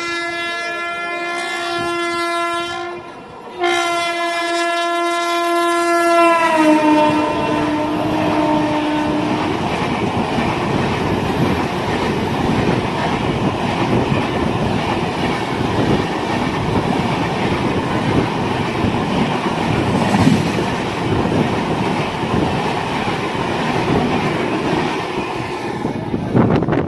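An Indian Railways electric locomotive sounds its horn in two long blasts as the express train approaches. The horn's pitch drops as the locomotive passes. The train then rushes past at speed with a loud, steady clatter of wheels on rail joints, which cuts off suddenly near the end.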